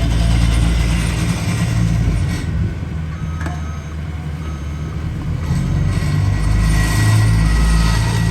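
Heavy road-paving equipment running, its engines giving a steady low drone that eases a little partway through and then builds again. Faint short beeps come and go over it.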